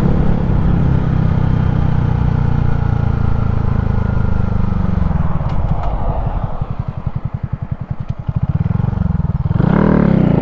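Honda Grom's small single-cylinder four-stroke engine, fitted with an aftermarket exhaust, running steadily under way. About halfway through it drops off toward idle with an even pulsing as the bike slows, then revs up again near the end.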